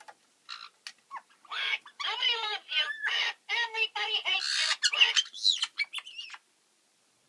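Caiques squawking and chattering in a rapid string of harsh, short calls, which stop abruptly about six seconds in.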